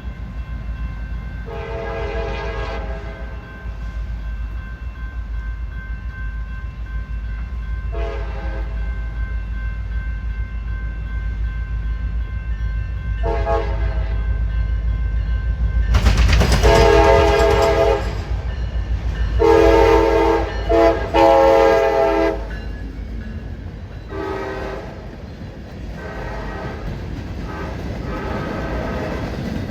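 Locomotive air horn sounding a string of blasts over the steady low rumble of a train. The longest and loudest blasts come in the middle, one after another with brief breaks, and quieter ones follow near the end.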